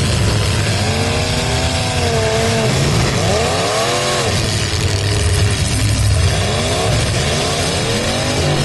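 Engines of full-size demolition derby cars revving hard over a heavy low rumble, their pitch repeatedly climbing and falling as the drivers get on and off the throttle.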